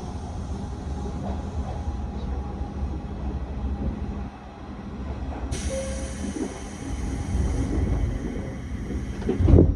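Electric commuter train interior with a steady low hum and rumble. About halfway through, a hiss of compressed air starts suddenly. Near the end comes a loud thud as the doors close.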